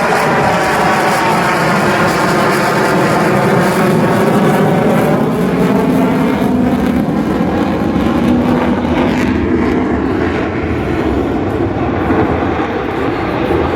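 Lockheed Martin F-35A Lightning II fighter jet flying past, its single afterburning turbofan engine loud and steady, with a tone that slides and sweeps as it passes.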